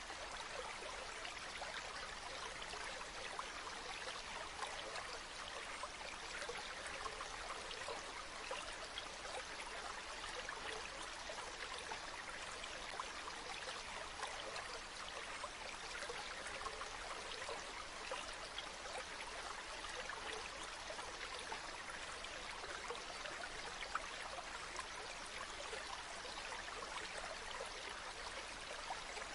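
Running water: a stream or small waterfall flowing steadily, a constant splashing hiss with fine droplet patter.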